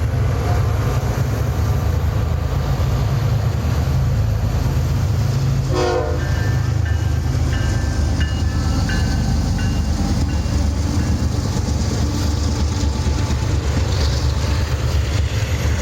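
Canadian Pacific train led by locomotive 4439 rolling past with a steady, heavy rumble. A short sharp sound comes about six seconds in, then thin high-pitched tones come and go for a few seconds.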